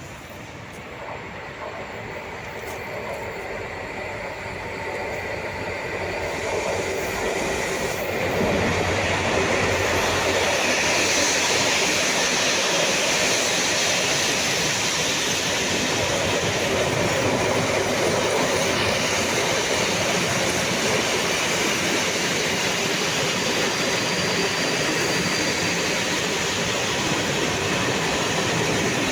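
Freight train approaching, growing louder over the first eight seconds or so, then passing at a steady loud level with its wagons rolling over the rails.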